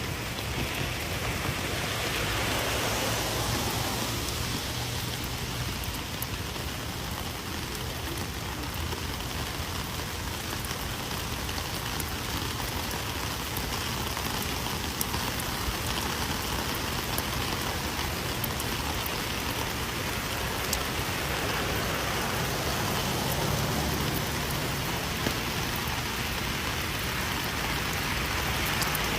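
Rain falling steadily, a dense even hiss of rain on surfaces with scattered sharp drop ticks.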